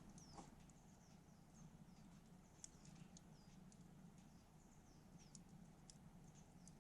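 Faint wood campfire crackling: scattered small pops and snaps a few times a second, with faint high squeaks between them.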